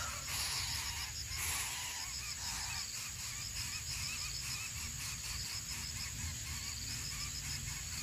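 Bird calls: a rapid series of short chirps throughout, over a steady high-pitched insect-like drone.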